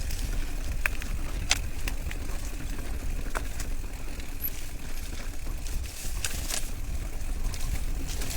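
Bicycle being ridden over a rough, grassy track: a steady low rumble of tyre and wind noise, with scattered clicks and rattles from the bike.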